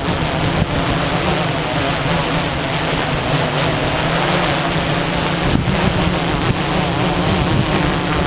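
DJI S1000 octocopter's motors and 15-inch propellers running with a steady, unbroken hum over a rushing noise.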